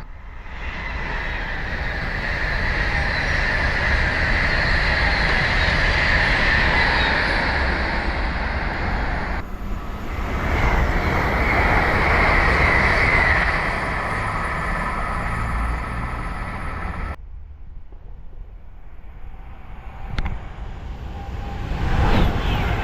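Train passing at speed: a loud, steady rush of wheels on rail and air, with a high, hissing edge. It breaks off abruptly twice, and after the second break it is quieter.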